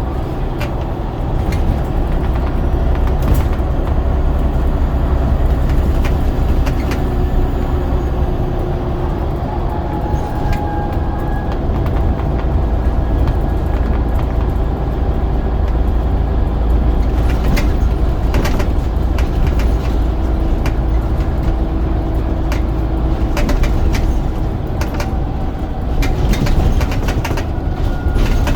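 Scania DC9 9.0-litre diesel engine of a double-decker bus running under way, heard from inside the bus: a loud, steady low drone with frequent clicks and rattles.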